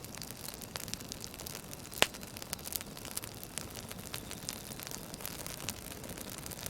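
Campfire crackling: a steady hiss of burning wood with scattered small pops and snaps, one louder pop about two seconds in.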